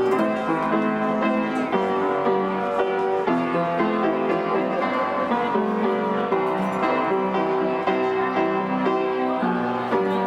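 Instrumental piano music playing slow, held chords.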